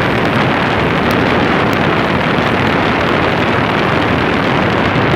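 Condenser fan of a Rheem 3-ton outdoor air-conditioner unit running. Its exhaust air blows straight across the microphone as a loud, steady rush of wind noise.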